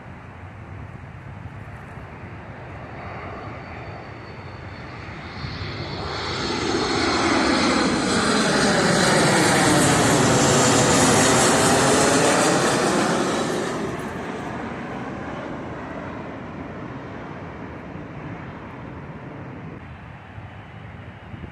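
An airplane passing low overhead: its engine noise swells over several seconds, peaks near the middle with a high whine over the rush, then fades away.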